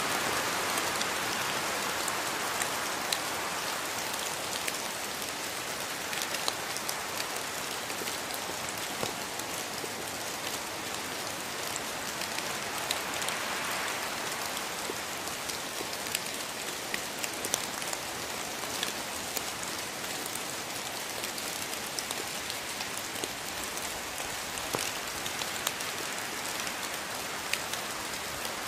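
Steady rain falling in a rainforest, an even hiss with many individual drops pattering close by and gentle swells in intensity.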